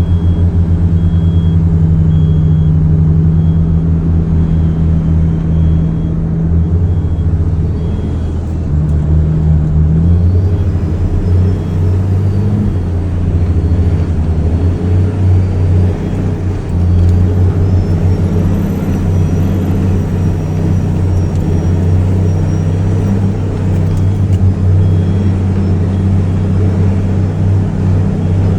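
Kenworth W900B dump truck's CAT C13 inline-six diesel running at low revs, a steady deep rumble whose pitch shifts slightly now and then.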